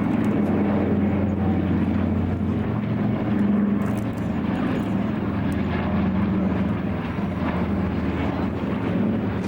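Radial piston engines of vintage propeller airliners droning steadily in flight, swelling slightly about three and a half seconds in.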